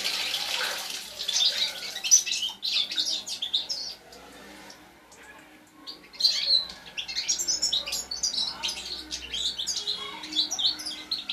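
Young European goldfinch singing: rapid twittering song in two runs with a short pause in the middle.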